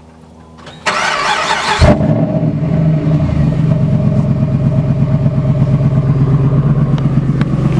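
Dodge Ram Cummins diesel engine starting: about a second of loud rushing cranking noise, a thump as it fires, then a steady, evenly pulsing diesel idle.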